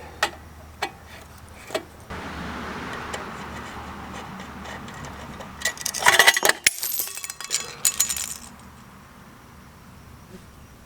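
Hands working on a motorcycle taillight to get at the bulb: a few small clicks, a few seconds of steady low noise, then a burst of bright metallic jingling and rattling about six seconds in, lasting about two seconds.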